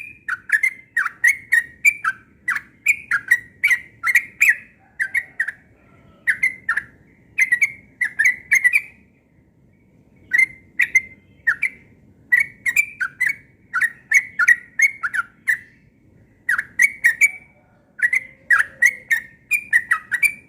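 Sooty-headed bulbul singing hard: fast runs of short, bubbly whistled notes, several a second, broken by brief pauses.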